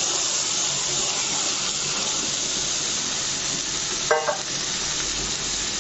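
Masala paste and a little water sizzling steadily in hot oil in a metal kadai, with a short metallic clink about four seconds in.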